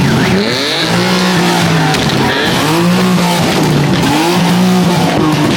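Car engine revving up and down in repeated swells about once a second while the tyres screech, a car spinning its tyres in a burnout or donut stunt.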